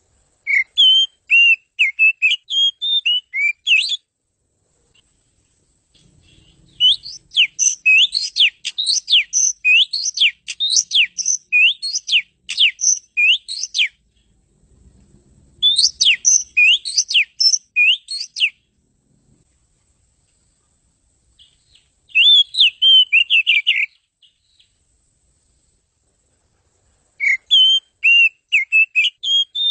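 Oriental magpie-robin (kacer) singing in five separate phrases of rapid whistled notes, with silent gaps of a few seconds between them. The longest phrase, in the middle, is a run of quick downward-sweeping notes.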